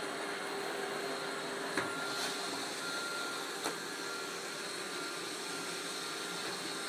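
iRobot Roomba 532 robot vacuum running with a steady whir and a thin whine. Two short sharp clicks come a little under two seconds in and again near four seconds.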